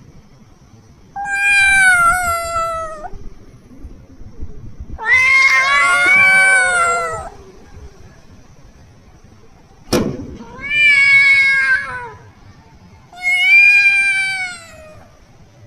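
Kitten meowing: four long, drawn-out meows of about two seconds each, with a sharp click just before the third.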